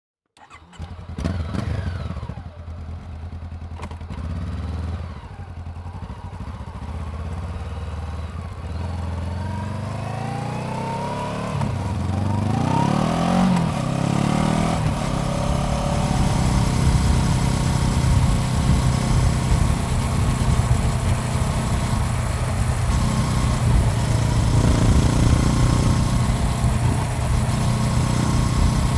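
Honda CBR400R's parallel-twin engine running as the motorcycle is ridden. The sound cuts in suddenly out of silence and grows louder, with the engine note rising in pitch a few times about halfway through, then running steadily.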